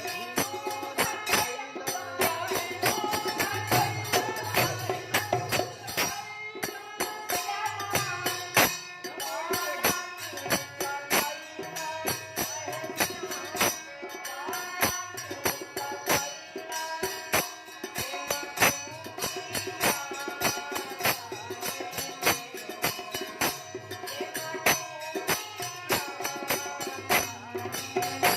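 Purvi folk music: quick, steady percussion with jingling tambourine-like strokes and drum beats under a wavering melody line.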